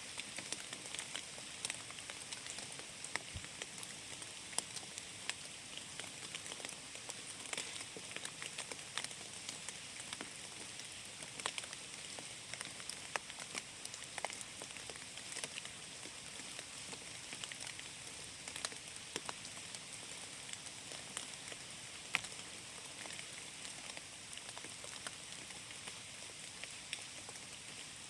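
Rain falling in a forest: a steady hiss, with many sharp, irregular taps of individual drops.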